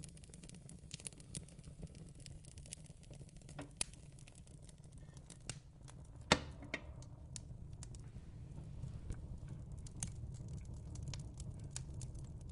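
Fireplace fire crackling, with scattered sharp pops, the loudest about six seconds in, over a low steady rumble.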